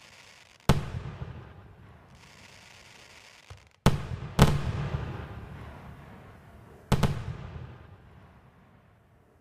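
Aerial firework shells bursting: four sharp booms, one about a second in, two close together near the middle and one near the end. Each is followed by a long fading rumble and crackle.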